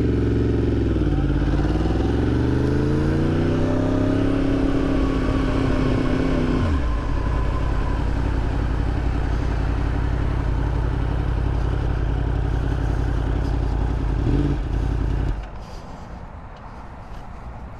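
Motorcycle engine pulling away: the revs dip at a gear change, climb steadily for a few seconds, then fall off. Wind and road noise carry on steadily, with a short blip of revs near the end before it all drops to a much quieter level.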